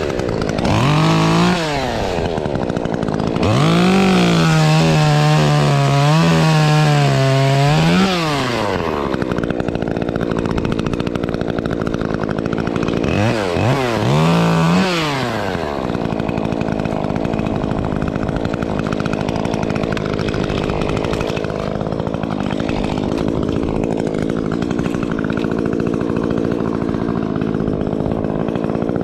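Two-stroke chainsaw revving: a short burst about a second in, held at high revs with a wavering pitch from about four to eight seconds in, another rev-up around fourteen seconds, then running steadily at a lower speed.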